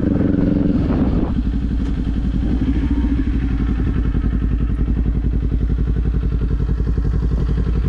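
Kawasaki Z400 parallel-twin motorcycle engine running. Its note changes about a second in, then holds steady with an even, fast pulsing beat.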